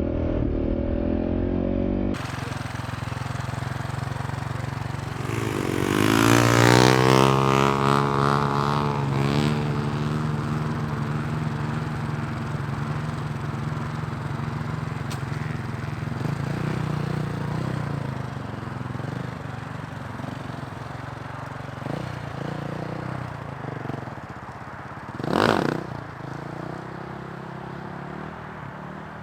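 Dirt bike engine revving up hard about six seconds in, then settling to a steady run that gradually fades away. There is one short, sharp burst of sound near the end.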